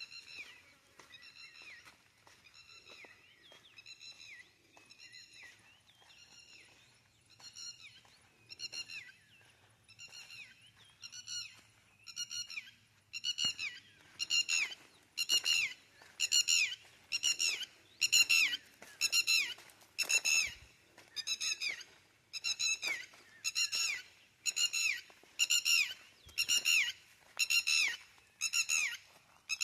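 A bird calling: a single high, slightly falling whistled note repeated steadily about once a second, growing louder from about halfway.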